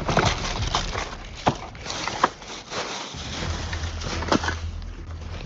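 Rummaging through a pile of discarded phones and boxes: a rustling clatter with scattered sharp knocks and clacks, three of them standing out.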